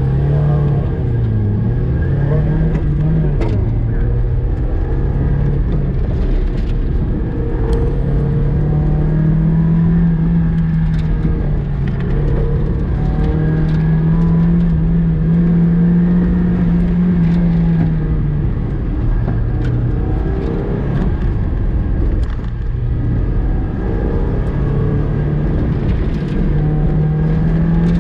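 2000 Mazda Miata's 1.8-litre four-cylinder engine heard from inside the car under hard driving, its note rising, holding and falling repeatedly as the car accelerates and slows through the cone course.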